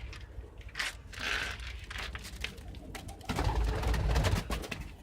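Homing pigeons cooing, with scattered clicks and a louder stretch of low rumbling noise starting about three seconds in.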